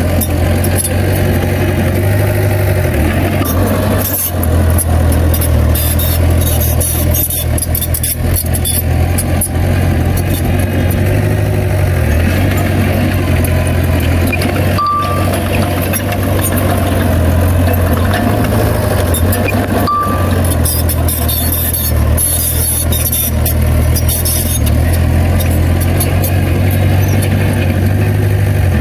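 Heavy earthmoving machinery engine running steadily under work, a loud continuous low hum. Two short high beeps sound, one about halfway through and one a few seconds later.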